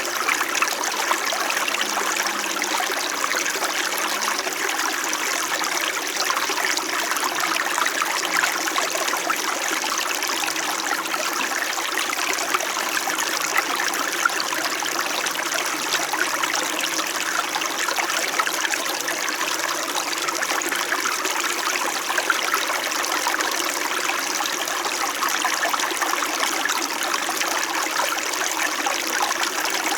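Small mountain stream flowing steadily over rocks, a continuous trickling babble.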